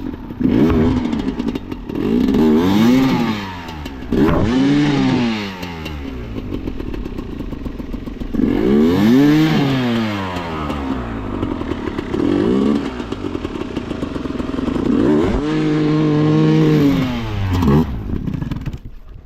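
Enduro motorcycle engine revving in repeated bursts, its pitch rising and falling again and again, then held high for about two seconds near the end before dropping off. A few knocks and clatters come in between.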